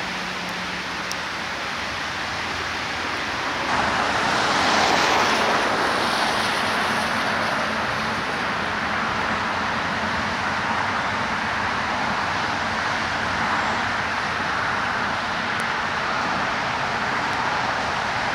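Rain falling on a flooded street, a steady hiss. After a cut about four seconds in, a louder steady rushing noise takes over, swelling briefly just after the change and then holding even.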